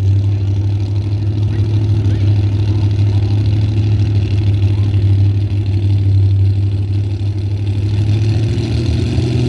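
Pulling truck's engine running loud and steady with a deep hum, its pitch rising slightly near the end.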